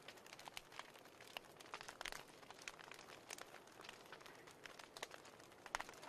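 Fireplace crackling faintly: irregular snaps and pops over a soft hiss.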